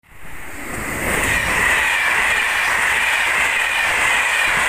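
SNCF TER regional passenger train passing close by at speed: the rushing rail noise swells up within the first second and stays loud, with a high whine that falls slightly in pitch as it goes by.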